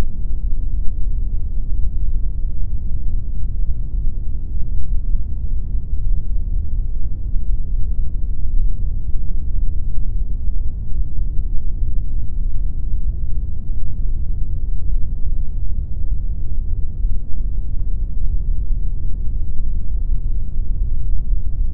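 Pink noise: a steady, unchanging hiss, deep and weighted toward the low end, with little treble.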